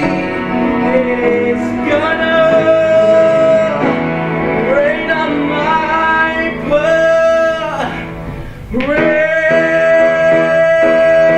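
A solo singer holding long, sustained notes over piano accompaniment, the closing phrases of a show tune. There is a brief break about three quarters of the way through, then one long held note.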